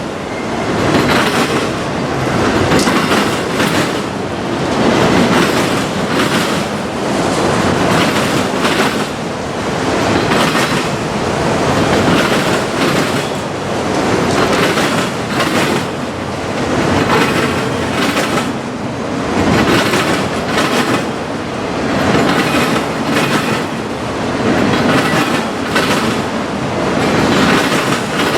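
A train's railroad cars rolling past, their wheels clicking over the rail joints in a steady clickety-clack. The sound swells and fades about every two seconds as each car goes by.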